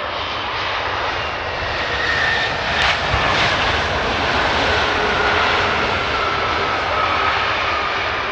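Jet airliner's engines roaring steadily as it passes close by, with whines that slowly drop in pitch, and one sharp crack about three seconds in.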